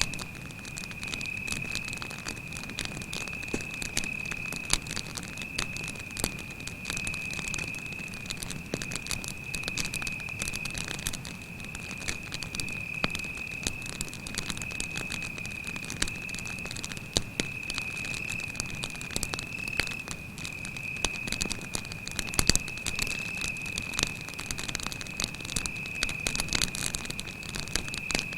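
Campfire crackling with frequent sharp pops, the loudest about 22 seconds in, over a cricket's steady, unbroken trill.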